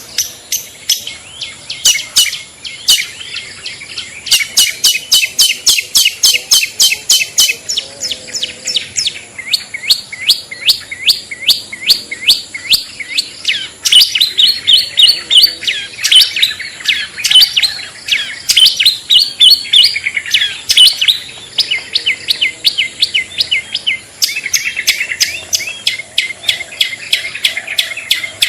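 Long-tailed shrike (cendet) lure call: rapid trains of sharp, high 'toet toet' chirps, several a second, coming in bouts with short pauses.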